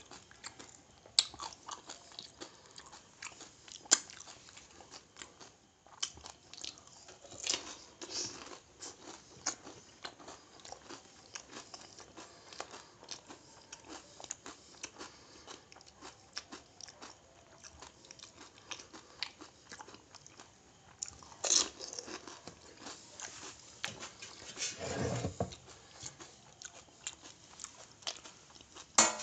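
Crisp pani puri shells cracking and being crunched and chewed in the mouth: many small sharp crunches, with a few louder ones scattered through.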